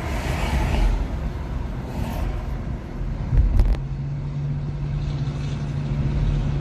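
Road and tyre noise from a Nissan Leaf electric car driving, with a couple of sharp knocks about three and a half seconds in and a steady low hum after them.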